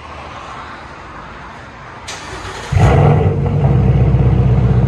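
Ford Mustang GT's 5.0 L Coyote V8 starting up, breathing through an X-pipe and Dynomax Race Bullet resonators with no mufflers. It cranks briefly about two seconds in, catches suddenly just before three seconds, and then idles loud and steady.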